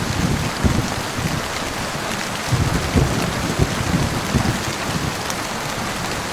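Heavy rain falling steadily, with short, irregular low rumbles of thunder under it, most of them around the middle.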